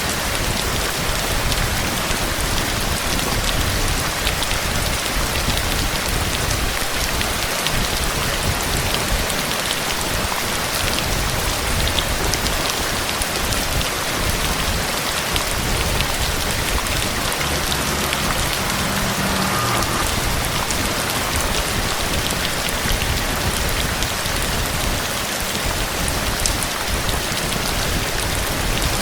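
Heavy rain falling steadily: a dense, even hiss of raindrops with sharper individual drop hits scattered through it.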